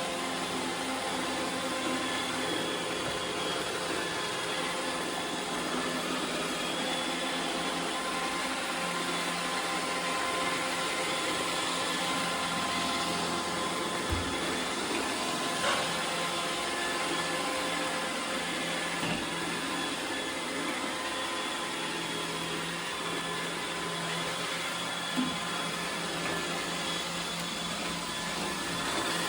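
iRobot Roomba 850 robot vacuum running, a steady whir of its motors with a few thin whine tones and a few brief knocks along the way.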